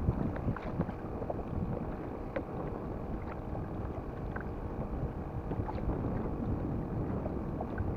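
Wind rumbling on an action camera's microphone, with water lapping at a kayak's hull and scattered small taps.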